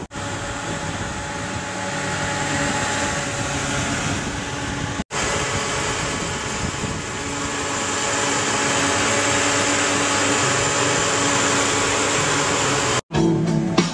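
2005 Mitsubishi Pajero engine idling with the bonnet open: a steady hum under a broad hiss, broken off twice by brief cuts. Guitar music comes in near the end.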